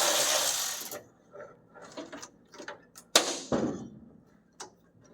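Parts being worked loose in a truck cab during disassembly: a loud rushing noise that cuts off about a second in, then scattered light clicks and a sharp knock a little past three seconds.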